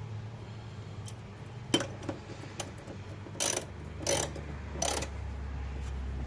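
Hand ratchet clicking as it turns the forcing bolt of a gear puller: a couple of single clicks, then three short runs of ratcheting in the second half, over a steady low hum.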